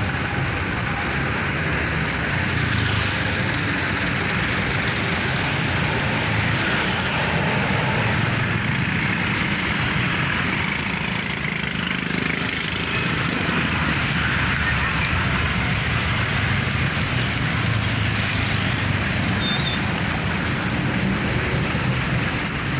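Dense road traffic passing steadily, a continuous mix of vehicle engines rumbling and tyre noise from cars, buses and trucks.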